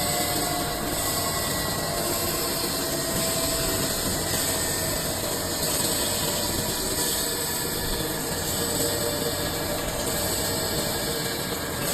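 CNC lathe running, a steady machining noise with faint steady whining tones, as it turns a cylinder blank into a ball.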